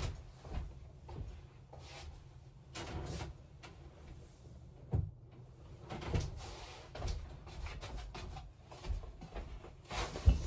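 Handling noises: scattered light knocks, bumps and rustling as things are moved about and picked up, with one sharper click about five seconds in.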